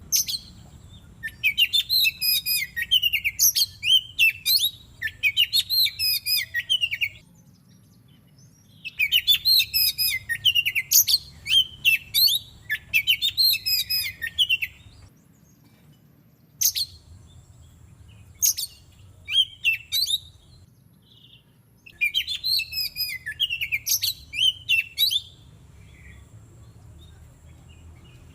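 Oriental magpie-robin (kacer) singing: bursts of rapid, varied whistles and chirps a few seconds long, separated by short pauses and scattered single notes.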